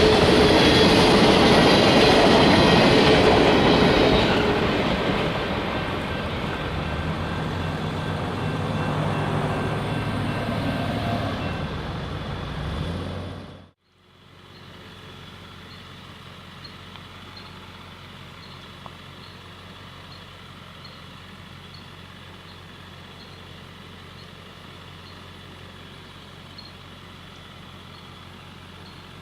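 Freight train rolling past, cars rumbling loudly and easing off after about four seconds. It cuts off abruptly about fourteen seconds in, leaving a much quieter, steady background rumble.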